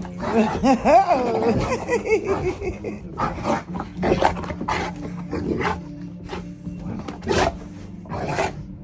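A dog growling and snarling in rough play. In the first two seconds there is a drawn-out vocal that bends up and down, followed by a run of short, rough growls.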